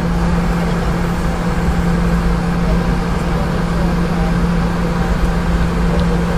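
Steady cabin noise inside a Boeing 717: the rear-mounted Rolls-Royce BR715 turbofans run with a constant low hum under an even rush of air and rumble.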